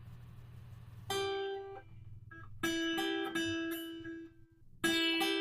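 Guitar played with a slide: a short phrase of about half a dozen single picked notes, in two bursts with brief gaps between them.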